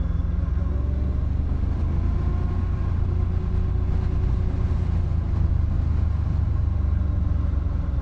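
Motorcycle engine running steadily on the move, its note drifting slightly, under a heavy low rumble of wind and road noise.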